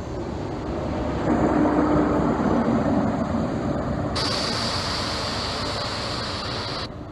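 Class 43 power car of a High Speed Train passing close and moving away, its diesel engine running with a low drone that swells as it nears. A loud hiss starts suddenly about four seconds in, as the power car goes by, and cuts off sharply just before the end.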